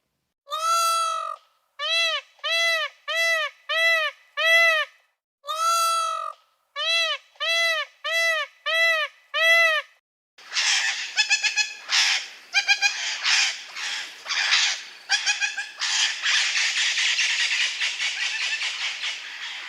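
An animal calling: a run of short, clear, arching calls, roughly two a second with two longer ones among them. About ten seconds in, a harsher, noisy screeching chatter takes over.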